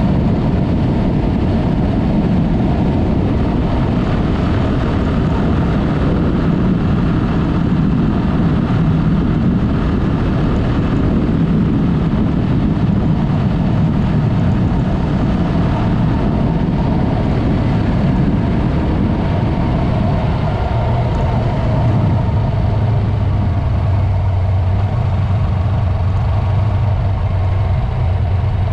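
Yamaha MT-03 motorcycle with an aftermarket Mivv exhaust, engine running loud and steady under way. About 20 seconds in, it drops to a lower, steadier note, as when easing off toward idle.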